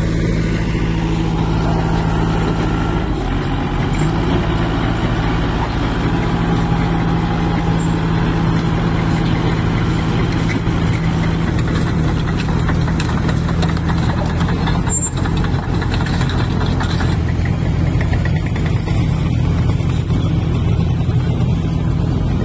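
JCB 2DX backhoe loader's Kirloskar diesel engine running steadily, with a slight shift in its note about three seconds in.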